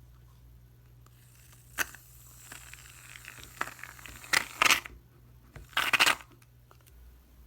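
Aerosol can of shaving foam spraying: a sharp click about two seconds in, a faint hiss, then several short, loud, sputtering bursts of foam in the second half.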